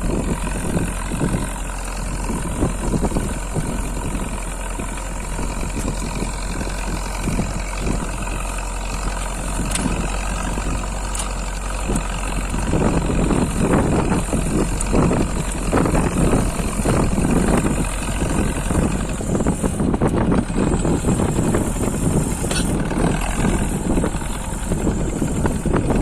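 Zetor 7211 tractor's four-cylinder diesel engine running while working the ground, getting clearly louder about halfway through.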